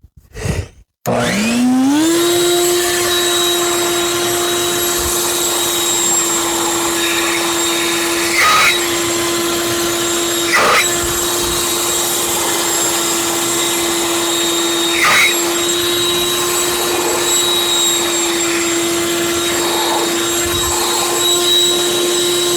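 Electric blower motor starting up about a second in and then running steadily at a high pitch, blowing air through a diesel oxidation catalyst to clear out soot. Three brief knocks come through it along the way.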